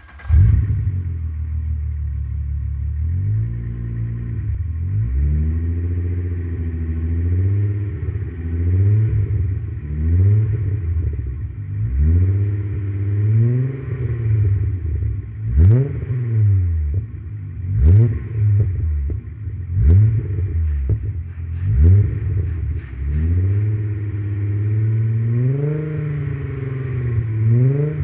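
1995 Volkswagen Passat's 2.8-litre VR6 engine idling, then revved again and again from about three seconds in, its pitch rising and falling with each rev. In the middle it gets short, sharp throttle blips, and there are longer held revs before and after.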